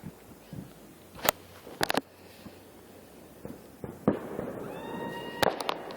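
Fireworks going off: a series of sharp bangs, some in quick clusters of two or three, with a short whistling tone just before the last cluster near the end.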